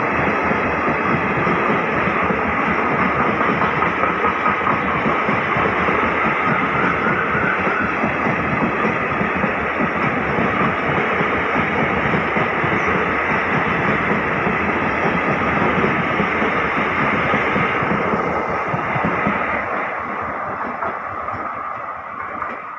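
Passenger train of ICF coaches running past close by, a steady rattle and rumble of wheels and coaches on the track that fades away near the end as the train draws off.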